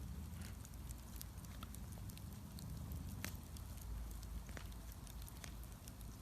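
Wood bonfire crackling, with scattered sharp pops and snaps over a low, steady rumble.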